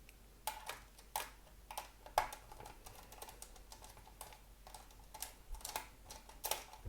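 T9 Torx screwdriver backing two small screws out of a metal heat shield on a circuit board: a string of small, irregular clicks and ticks.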